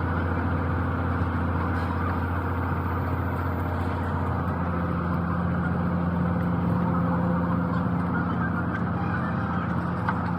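An engine running steadily with a low hum; a second, slightly higher tone joins in about four and a half seconds in.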